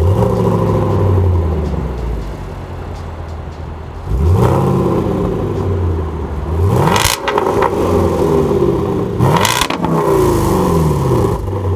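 Land Rover Defender's supercharged V8 with a Milltek non-resonated GPF-back exhaust, revved from idle: the revs climb about four seconds in, again near seven and nine and a half seconds, and fall away after each blip.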